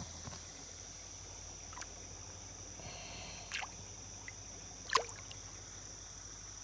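Two short splashes in shallow creek water, about three and a half and five seconds in, as a caught spotted bass is let back into the creek. A steady high drone of crickets runs underneath.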